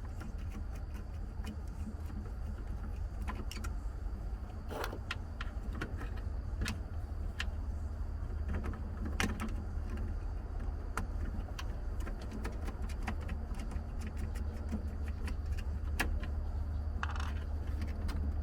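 Small metal parts and hand tools clicking and clinking as they are handled, in short irregular taps, over a steady low hum.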